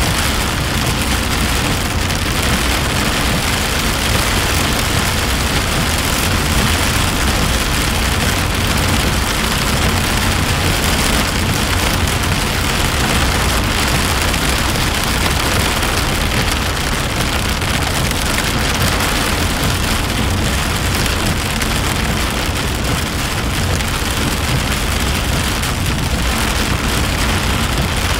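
Heavy rain falling on a car's windshield and body, heard from inside the moving car, loud and steady, over a low rumble of the car running on the wet road.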